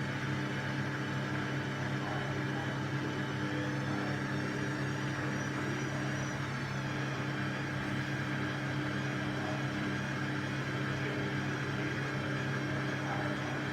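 Washing machine running with a steady hum, several constant low tones over an even whir.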